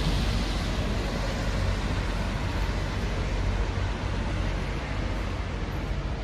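Wind buffeting the phone's microphone as a steady low rumble over a constant hiss of city street and traffic noise.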